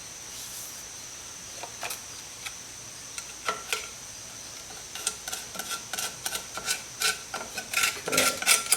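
Metal hand tools and hub parts being handled against a wheel hub, with irregular light clinks and taps, some with a faint metallic ring. A few scattered clicks at first become busier clinking from about halfway through.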